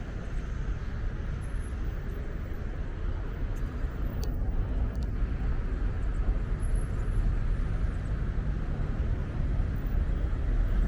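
Steady outdoor street ambience of road traffic, a continuous low rumble without any distinct single event.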